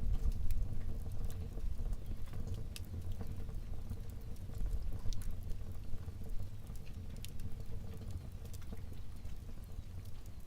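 Wood fire burning in a fireplace: scattered sharp crackles and pops over a low, steady rumble of flames.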